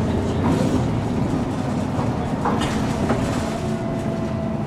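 MAN NG 313 articulated city bus diesel engine running steadily, with a few sharp clicks or rattles a little past halfway.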